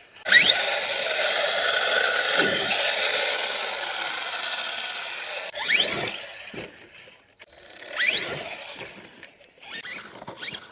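RC car's motor whining as it is driven over a dirt jump, its pitch sweeping sharply upward each time it accelerates: once at the start, then again about six and eight seconds in. The first run is long and loud and fades away over several seconds.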